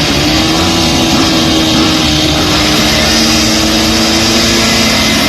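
Motocross dirt bike engines running, with two engines holding steady revs, one joining about three seconds in.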